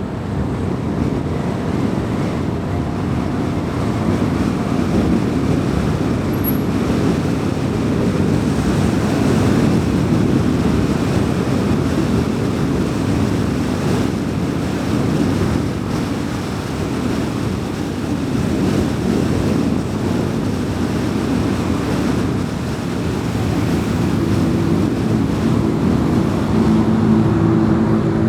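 Car driving on a road: a steady rumble of tyre and road noise with engine hum. Near the end a steady engine tone comes in.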